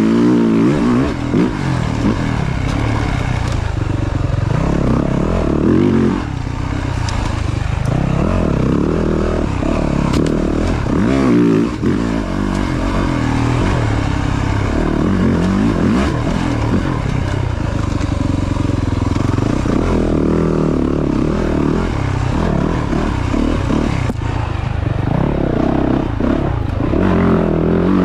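Yamaha YZ450F dirt bike's single-cylinder four-stroke engine revving up and down, the pitch rising and falling over and over as the bike is ridden along the trail.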